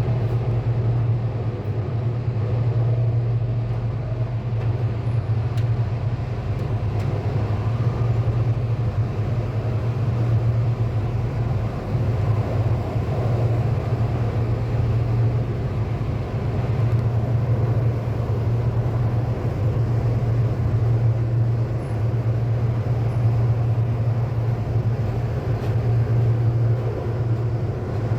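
Sydney Metro driverless train running steadily, heard from inside the carriage: a continuous low rumble with an even wash of running noise over it.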